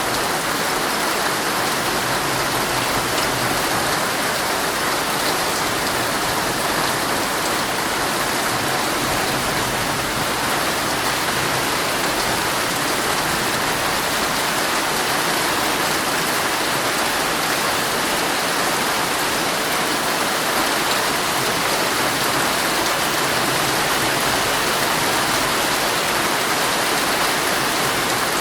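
Heavy rain falling steadily on a tent's fabric, heard from inside the tent: a dense, even hiss of drops with no let-up.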